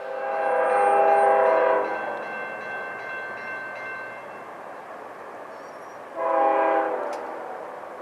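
Diesel locomotive air horn sounding a multi-note chord: a long blast that trails off over the next couple of seconds, then a short second blast about six seconds in.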